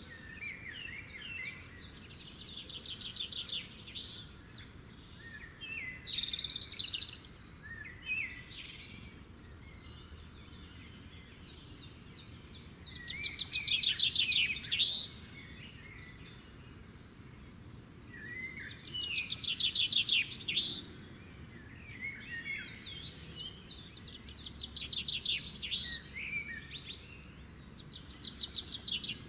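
Songbirds singing: rapid trills of about two seconds each, repeated several times and loudest around the middle and two-thirds of the way through, with short chirps and whistled glides between them.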